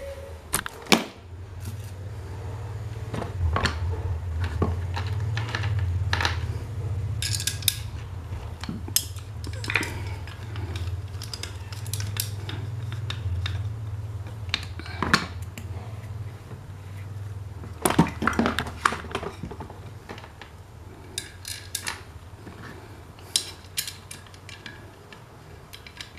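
Metal parts of an old standing electric fan clinking and clicking as they are handled, some strikes ringing briefly, over a low steady hum that fades about two-thirds of the way through.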